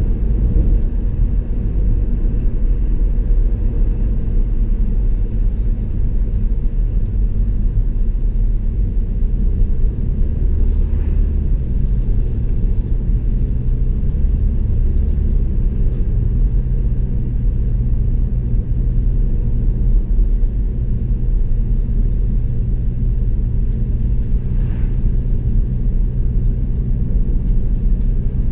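Road noise inside a moving car: a steady low rumble of engine and tyres on the road.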